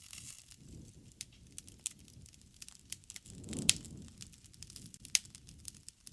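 Wood campfire crackling: many small, irregular pops over a low rumble of burning. The loudest pop comes about halfway through on a brief swell of the rumble, and another sharp pop follows about a second and a half later.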